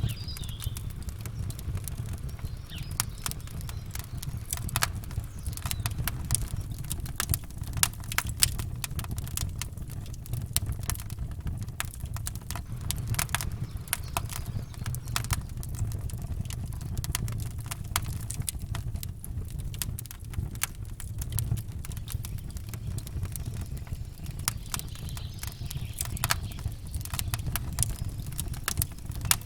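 Campfire crackling, with many irregular sharp pops and snaps over a steady low rumble.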